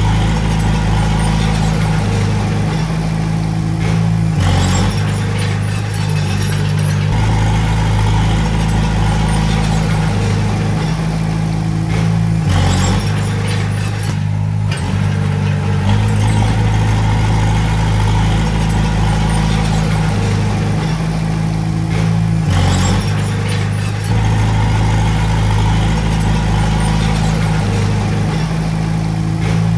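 Diesel engine of a Komatsu D20A bulldozer running under load, its note shifting every several seconds as the machine works.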